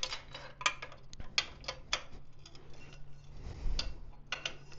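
Irregular light metallic clicks and ticks of a hand tool working a loosened bolt out, about a dozen in all, the loudest a few near the start and a pair a little before the end. A faint steady hum runs under them.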